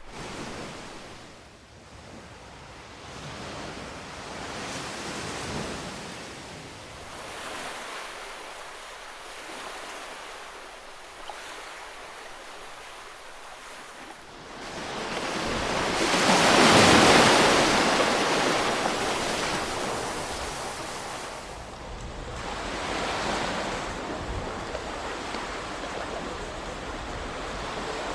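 Ocean surf: a steady hiss of waves washing in that swells and ebbs in slow surges, with the biggest wave breaking a little past halfway through.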